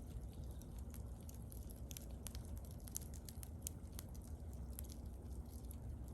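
Wood bonfire crackling, with irregular sharp pops and snaps over a low steady background.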